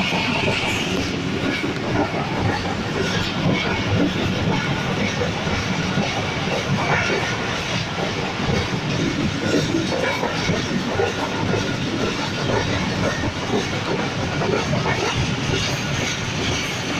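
Passenger train running along the track, heard from inside a carriage at the window: a steady, unbroken noise of wheels on the rails.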